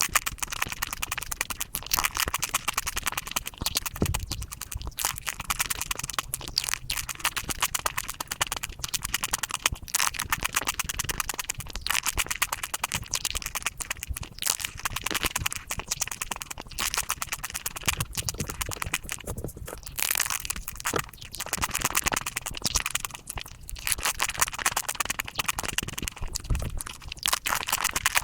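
Chocolate being bitten, cracked and chewed close to the microphone, sped up to five times normal speed so the crunches and mouth clicks run together into a dense, rapid crackle.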